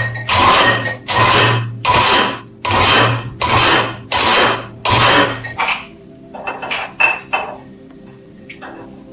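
Metal being scraped by hand in about eight rhythmic rasping strokes, roughly one every 0.7 s, then a few light taps and clicks in the second half.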